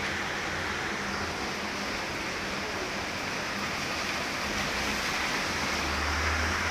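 Steady rain falling, an even hiss with a faint low hum underneath that grows a little stronger near the end.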